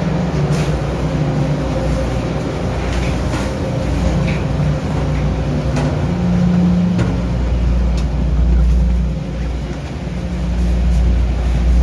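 Heavy engine running with a steady low rumble and hum, swelling and easing a couple of times, with a few faint clicks over it.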